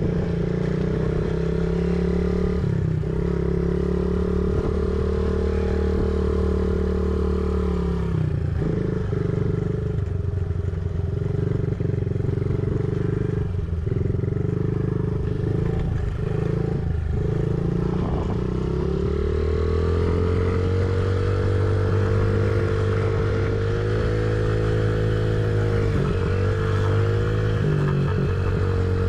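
Honda CRF50 mini dirt bike engine running continuously on a motocross track, rising and falling as the throttle changes. The note drops about eight seconds in, builds back up a little before the twenty-second mark, and changes in several steps near the end, with some clatter from the bike.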